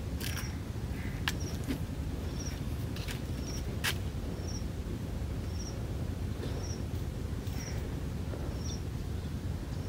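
A small bird repeats a short, high chirp about once a second over a steady low background rumble. A few sharp clicks come from a plastic water can being handled, the loudest just before the middle.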